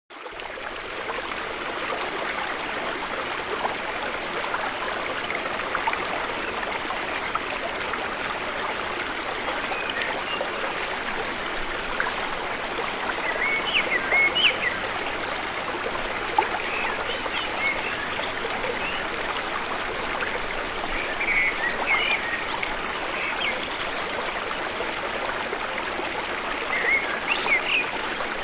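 River water flowing steadily, an even rushing that fades in at the start. Small birds chirp now and then over it from about ten seconds in.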